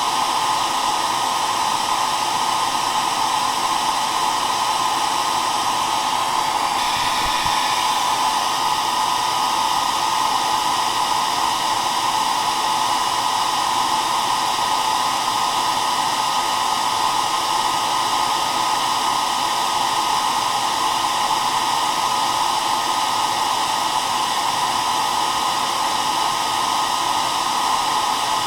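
Hair dryer running steadily: an even, unbroken rush of fan and airflow at a constant speed.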